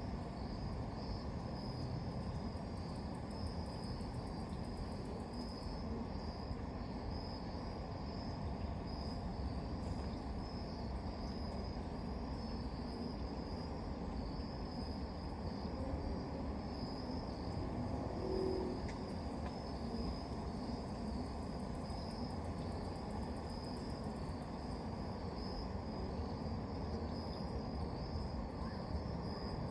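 Crickets chirping in a steady, high, pulsing trill over a steady low background noise.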